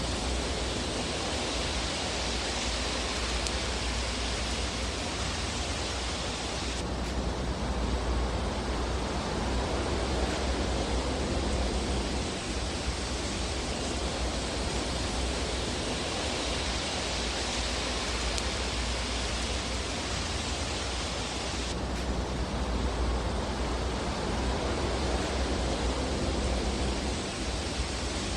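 Steady hiss and low rumble of a fireplace ambience track, with no distinct crackles standing out. A brighter hiss swells and fades, and the sound shifts abruptly twice, about fifteen seconds apart.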